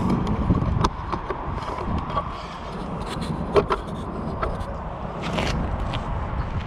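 Scattered clicks, knocks and scrapes of hand work on the condenser unit, over a low steady rumble. The sharpest knock comes a little past halfway, and a longer scrape follows near the end.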